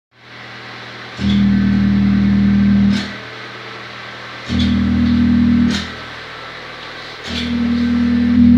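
Alfa Romeo 147 exhaust: the engine idles and is blipped up three times, each time held at a steady higher pitch for one to two seconds before dropping back to idle.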